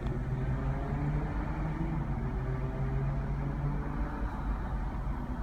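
A vehicle engine running with a steady low hum that wavers slightly in pitch, over the noise of street traffic.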